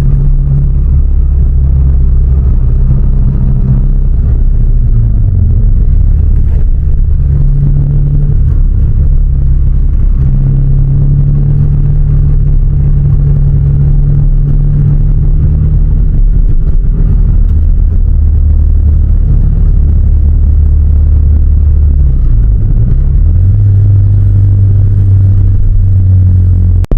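Car engine and road noise from a moving car: a loud, low, steady drone whose pitch shifts up and down several times as the engine speed changes.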